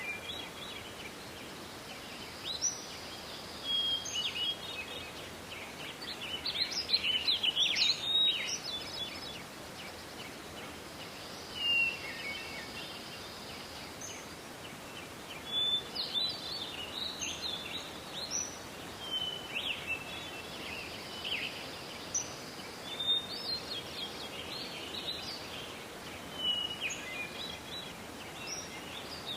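Forest ambience: songbirds singing in short phrases every few seconds, with a few denser bursts of song, over a steady hiss of background noise.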